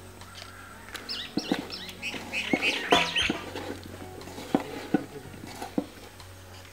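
Small birds chirping in quick runs of high notes for a couple of seconds, starting about a second in, along with a few sharp clicks as a hand mixes flaked fish and chopped green chillies in an aluminium pot. Faint background music underneath.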